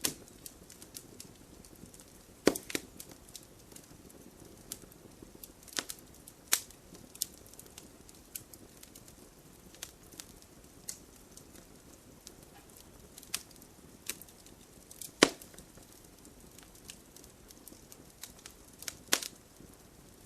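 Wood fire crackling in a fireplace: irregular sharp pops and snaps from the burning logs over a low steady hiss. The loudest pops come about two and a half seconds in, about fifteen seconds in, and near the end.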